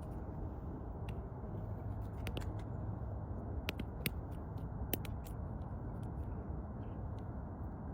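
Woodpecker pecking: a scatter of irregular sharp taps, thickest around the middle, over a steady low rumble.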